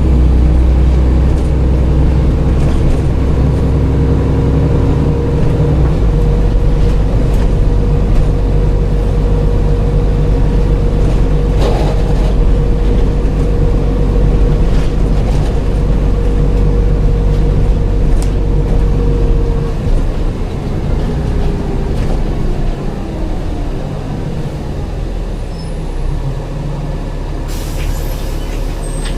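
Dennis Trident double-decker bus's diesel engine running hard with a steady turbo whistle, which stops about two-thirds through as the engine eases off. A short hiss of air near the end.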